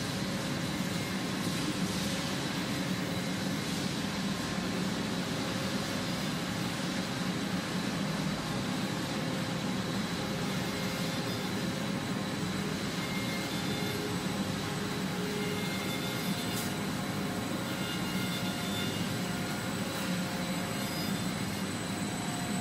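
Steady machinery noise of a running continuous steel wire annealing line: a low hum with a faint high whine on top, and short faint tones coming and going in the second half.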